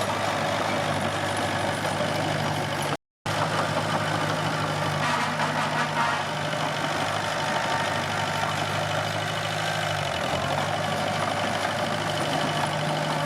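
Bulldozer diesel engine running steadily. The sound drops out completely for a moment about three seconds in, then the engine carries on.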